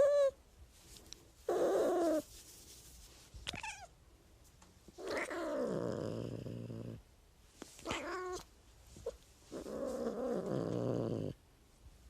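A domestic cat meowing and yowling: about five calls with pauses between them, two of them long and drawn out, one sliding down in pitch.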